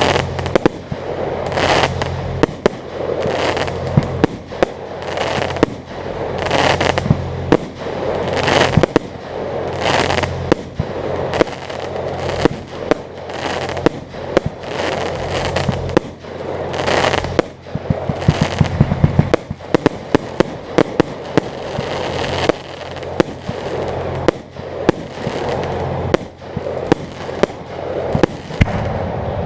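Fireworks display: a rapid, continuous barrage of booming shell bursts and sharp crackling reports, several a second, with clusters of quick cracks.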